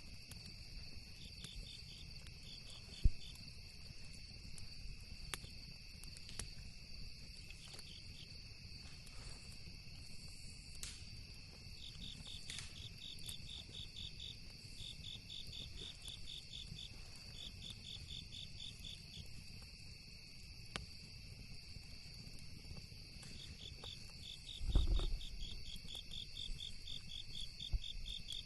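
Night insects chirping: a steady high drone with runs of rapid, evenly pulsed trills coming and going over it. Occasional sharp pops from a campfire crackle through, with a low thump about 25 seconds in.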